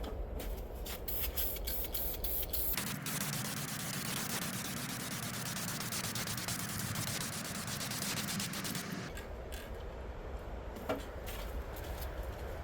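A steady hissing spray, likely from a shop tool such as a spray gun or blaster, starts about three seconds in and lasts about six seconds over a low motor hum. Short ticks come before it, and the hum goes on after it stops.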